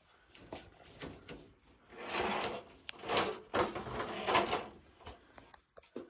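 Handling noise from work on a ceiling light fixture: light clicks and knocks with three rustling scrapes about a second apart.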